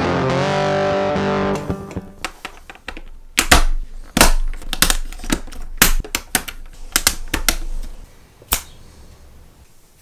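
Electric guitar music that stops about a second and a half in, followed by a run of irregular sharp clicks and knocks, a few of them much louder than the rest.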